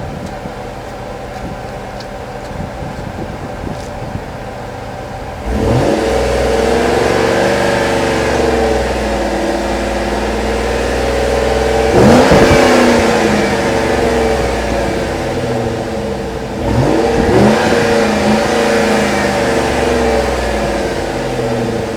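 2007 GMC Yukon's 5.3-litre Vortec V8 heard at the exhaust: idling, then revved three times, about five, twelve and seventeen seconds in, each rev climbing quickly and sinking slowly back. It sounds good despite 162,000 miles.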